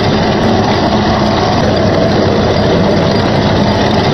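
Radio-controlled model battle tank driving over gravel, with a steady engine-like running sound.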